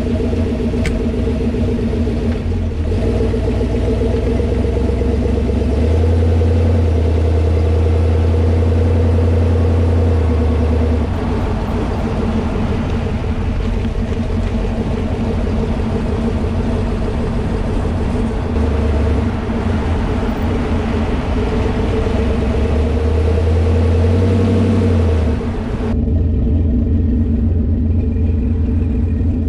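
1979 Ford Mustang's V8 engine running on the road, pulling harder with a louder, deeper note about six seconds in and again near the end, then easing back.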